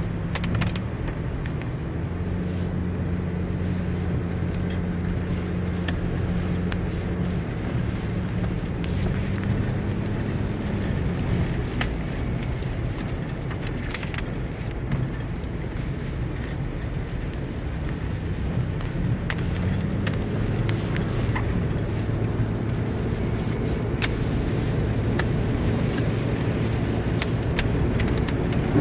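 Car engine running while driving, over steady road noise. The engine note shifts in pitch twice, about a third and about two-thirds of the way through. Scattered light ticks are heard throughout.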